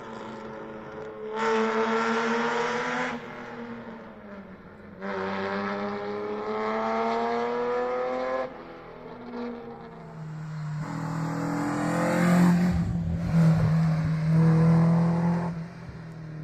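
Historic rally car engine pulling hard on a stage. Its note climbs in long rising pulls broken by abrupt drops at the gear changes, then grows loudest as the car passes close near the end.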